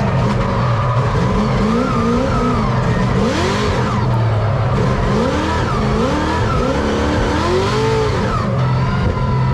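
Drift car engine revving up and down over and over, about once a second, with tyres squealing and skidding under it.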